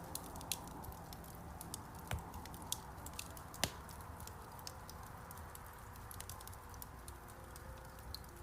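Wood fire crackling in a fireplace: irregular sharp pops and snaps over a steady low hiss, the loudest pop about three and a half seconds in.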